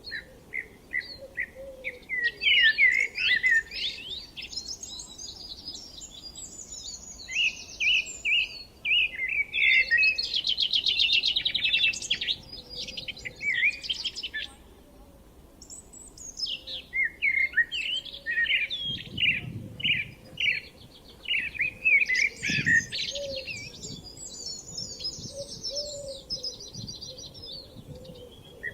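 Several songbirds singing at once: overlapping phrases of quick chirps and whistles, with a fast trill about ten seconds in.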